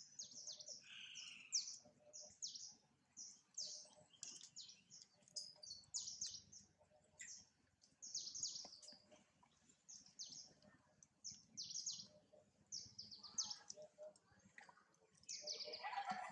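Faint, high-pitched bird chirps repeated about twice a second, each a quick downward sweep. Near the end a louder, lower-pitched call breaks in.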